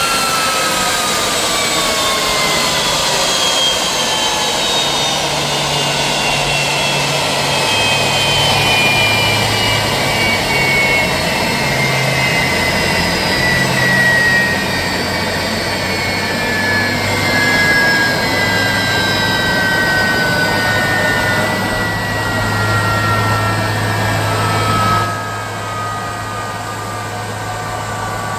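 Jet engines of a Boeing 767-300ER winding down, a whine slowly falling in pitch over a steady rush, with a low hum underneath. The upper hiss drops away near the end.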